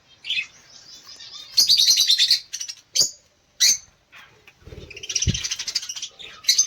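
Budgerigars chirping and chattering, with two longer bursts of busy warbling chatter and several short, sharp chirps between them.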